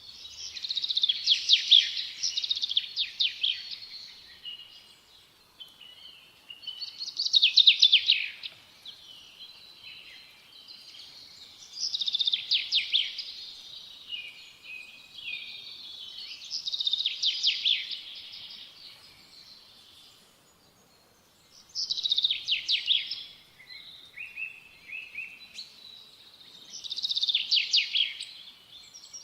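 Small songbird singing a short, fast trilled phrase about every five seconds, six times, with softer chirps in between.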